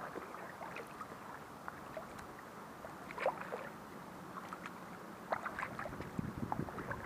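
Kayak paddling: small splashes and drips as the paddle blades dip in and out of the water, coming in clusters about three seconds in and again in the second half.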